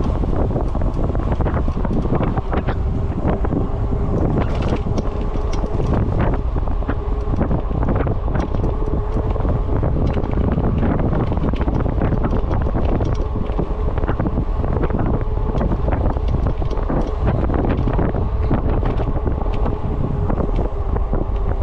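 Wind buffeting the microphone on a moving e-bike, a steady loud rushing with frequent short knocks, and a faint steady whine underneath.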